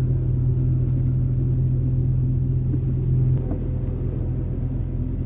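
Off-road truck's engine running under way, a steady low drone that eases off a little over three seconds in.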